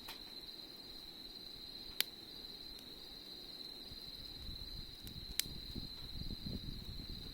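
Autumn insects trilling steadily on one high note, with two sharp pops from the campfire, about two and five seconds in. A low rumble rises in the second half.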